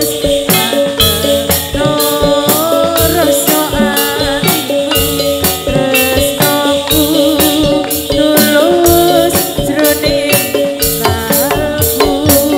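Live Javanese folk dance music for a gedruk performance: drums on a steady beat of about three a second, a wavering melody and a constant jingling rattle over it.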